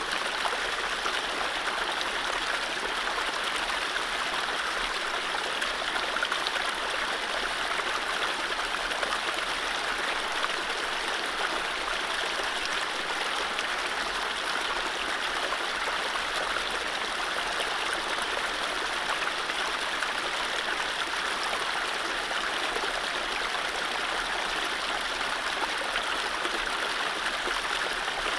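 Mountain stream running steadily over low rapids, an even rushing of water with no birdsong.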